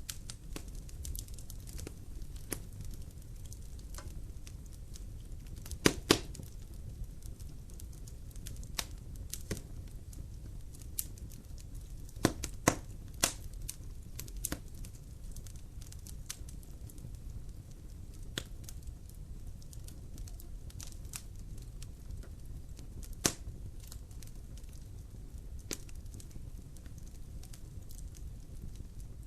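Wood fire crackling in a fireplace: irregular sharp pops over a steady low rumble, with the loudest pops about six seconds in, twice around twelve to thirteen seconds, and once near twenty-three seconds.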